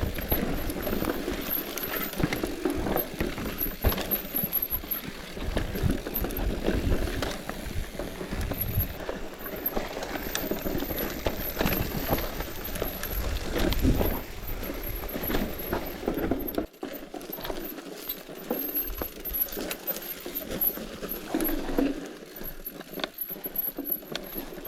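Bicycle riding over a rough trail: the tyres run over stones and the bike rattles, with many irregular knocks and clicks. The lowest rumble drops away about two-thirds of the way through.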